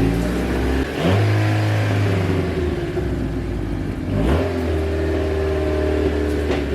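Honda Civic EF's D15B4 four-cylinder engine running and being revved, rising in pitch about a second in and again just after four seconds. It is firing on only three cylinders.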